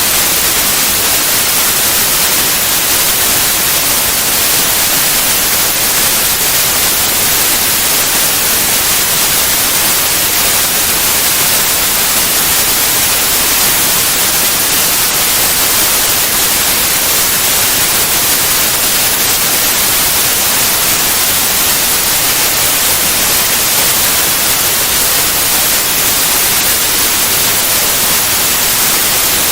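Steady white noise: an even, unchanging hiss across all pitches, with no rises or breaks.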